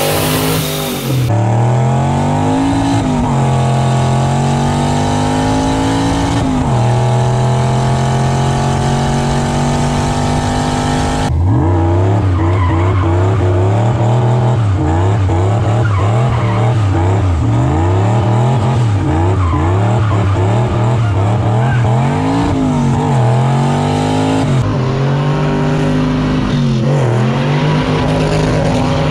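Turbocharged 283 small-block Chevy V8 running hard in several short clips: first revving with its pitch climbing in long sweeps that drop back and climb again, then revving rapidly up and down in a burnout, with some tyre squeal.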